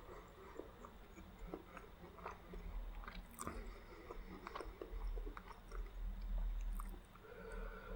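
Close-miked chewing of a mouthful of food, with scattered soft wet clicks and smacks of the mouth.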